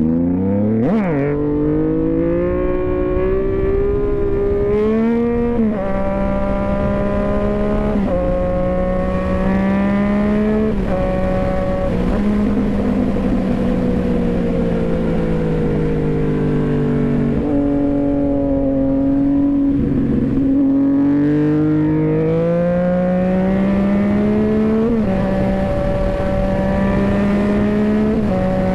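2015 Yamaha FZ-09's three-cylinder engine under way, its pitch climbing and stepping as it shifts through the gears, falling away for several seconds in the middle as it slows, then pulling up again. Wind noise rushes over the helmet-mounted microphone.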